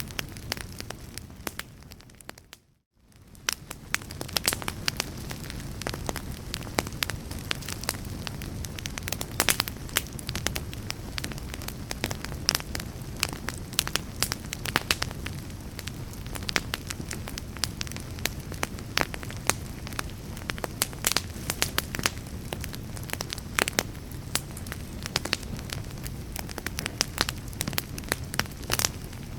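Wood fire crackling, with frequent irregular sharp pops over a low steady rumble. The sound fades out briefly about three seconds in and fades back up.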